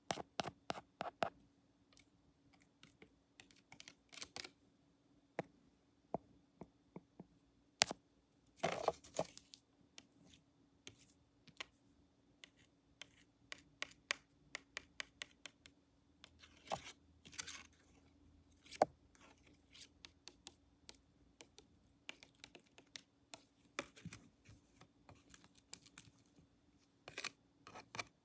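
Close-up ASMR handling of small objects: irregular light taps and clicks, with a few short scratchy rustles.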